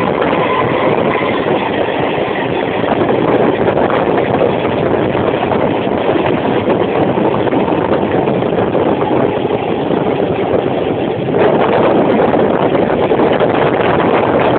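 Running noise of a train heard from on board at an open door or window: a steady, loud rumble of wheels on rails mixed with rushing air, getting louder about eleven seconds in.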